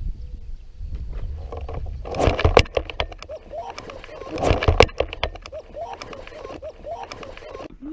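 Kayak paddling and handling noise: two bursts of splashing and knocking about two seconds apart, over a low rumble, with small repeated chirps near the end.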